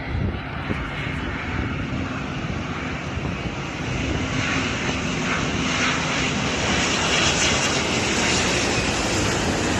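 Airliner's jet engines, a steady noise that grows louder from about halfway through as the aircraft comes closer.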